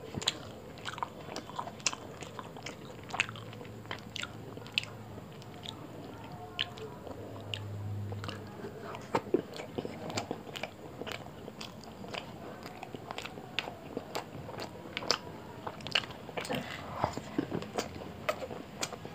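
Close-miked chewing and eating of roti with curry by hand: irregular wet mouth clicks and lip smacks.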